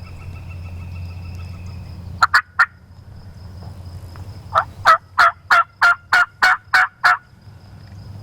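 Wild turkey yelping: a short run of three yelps about two seconds in, then a longer series of about nine evenly spaced yelps from about four and a half seconds in, about three a second.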